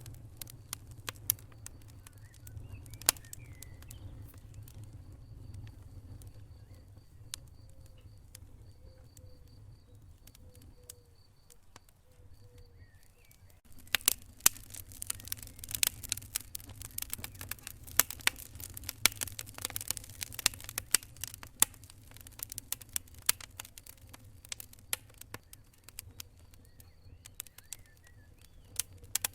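Wood fire burning in a fireplace: a low rumble with scattered crackles and pops, sparse at first, then much denser and louder from about halfway through. A faint high-pitched pulsing sound runs in the background for much of the first half.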